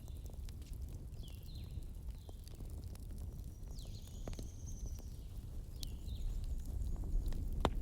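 Campfire burning with a low rumble and scattered crackles, with a sharp pop near the end. Over it a bird chirps repeatedly in short, high, downward-sliding notes, with one longer high whistle in the middle.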